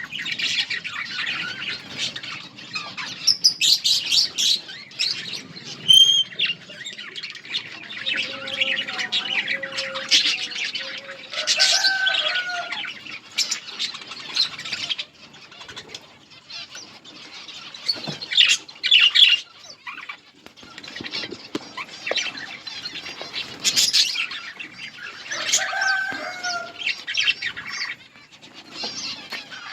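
A flock of budgerigars chattering and chirping constantly, in louder flurries, with wings fluttering and a few lower, sliding whistles among the chatter.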